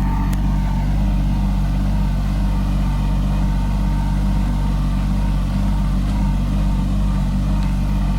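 Kubota 27 HP tractor's diesel engine running at a steady speed, with a faint steady high whine above it.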